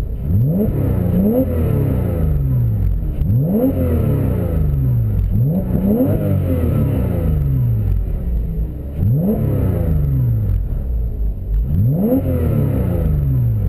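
2006 Porsche Cayman S's 3.4-litre flat-six, fitted with an FVD Brombacher sound-version exhaust, revved again and again in quick throttle blips. Each rev climbs sharply, then falls back more slowly toward idle.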